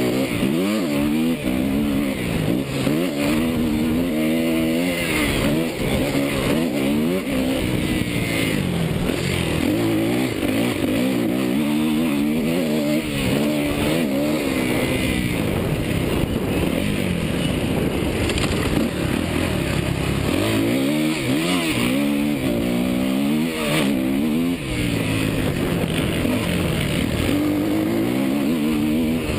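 Suzuki motocross bike's engine being ridden hard, its pitch climbing and dropping again and again as the throttle is worked through the track's jumps and corners.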